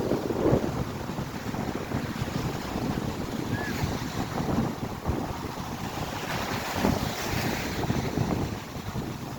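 Baltic Sea surf washing onto the beach, with wind buffeting the microphone in uneven low gusts.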